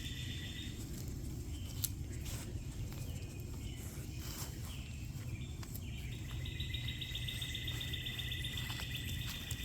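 Crickets trilling steadily over a low background rumble. The trill drops out about a second in and comes back about six and a half seconds in. There is a single faint click about two seconds in.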